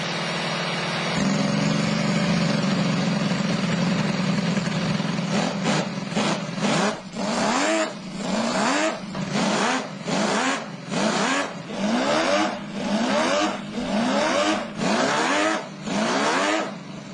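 Hand-built 100cc four-stroke flat-12 engine of a scale Ferrari 312PB model running steadily at a fast idle, then from about five seconds in blipped over and over, more than a dozen quick revs, each a sharp rise in pitch, a little faster than one per second.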